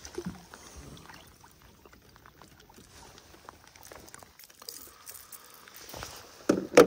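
Light rain pattering on the water and on a plastic fishing kayak, with small knocks of gear being handled. Two loud thumps come near the end.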